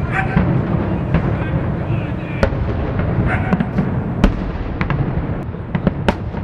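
Fireworks display heard from about a kilometre away: aerial shells bursting in a string of sharp bangs and crackles at irregular intervals over a low rumble, the loudest bangs about two and a half, four and six seconds in.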